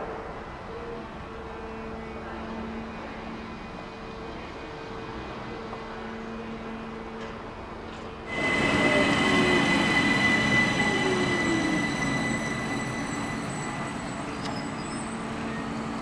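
A distant train hums faintly and steadily for about eight seconds. Then, suddenly louder, an ÖBB Talent electric multiple unit comes in slowing, with a high steady squeal and falling whines as it brakes, fading over the last few seconds.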